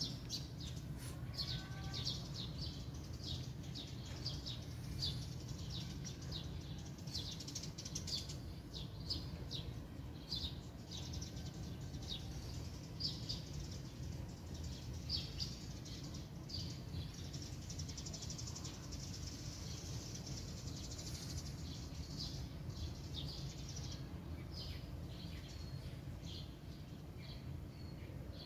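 Small birds chirping in quick, high, repeated chirps, over a steady low rumble.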